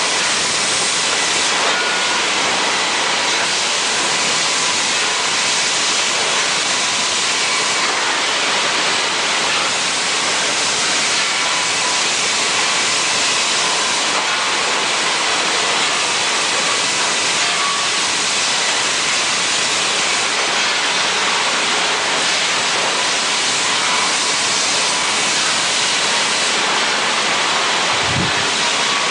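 Steady, loud hissing noise of machinery on a pliers-factory floor, with faint steady tones under it.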